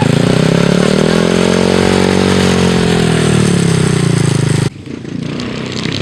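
Pit bike engine at high revs, its pitch climbing and then falling away, cut off abruptly about three-quarters of the way through.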